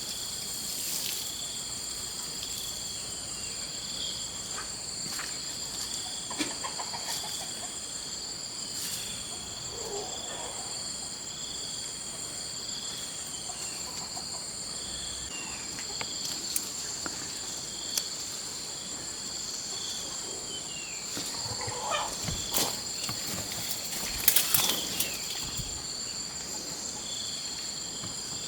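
A steady, shrill insect chorus of crickets or cicadas, several high tones held without a break. Scattered knocks and a few short calls sound over it, most of them from about three quarters of the way in.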